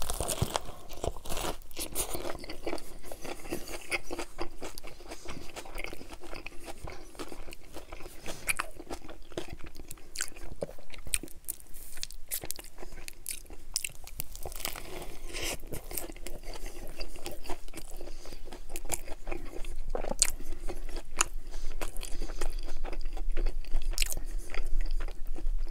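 Close-miked biting and chewing of a toasted sub sandwich stuffed with baked potato chips, crunching throughout in many small crackles.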